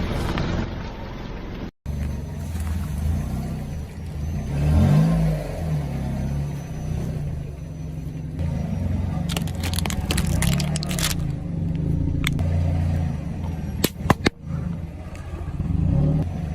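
Car engine running low and steady, with a brief rev about five seconds in. Bursts of sharp crackling and cracking come around the middle and twice near the end, as things are crushed under the car.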